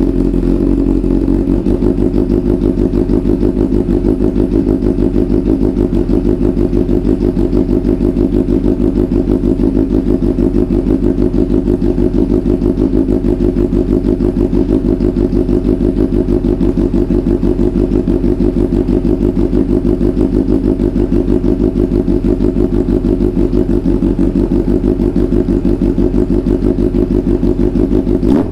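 Yamaha FJ1200's inline-four engine idling steadily while it warms up.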